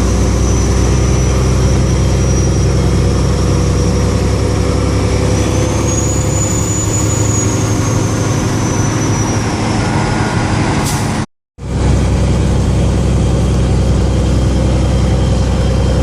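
Kenworth W900L tractor unit's big diesel engine running steadily under way, loud, with a faint high whine rising a little near the middle. The sound cuts out completely for a moment about eleven seconds in.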